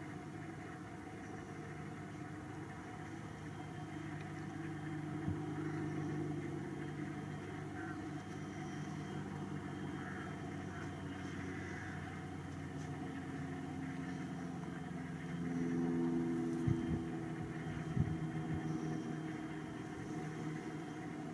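An engine running steadily with a low, pitched hum that swells for a few seconds about three-quarters of the way through, with a few sharp knocks.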